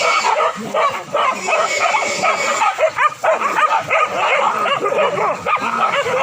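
A pack of boar-hunting dogs barking and yelping over one another without pause, many high, short calls overlapping.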